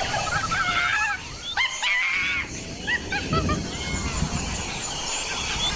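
Several birds calling outdoors: a busy string of short chirps and whistled notes that rise and fall in pitch, over a steady low background rumble.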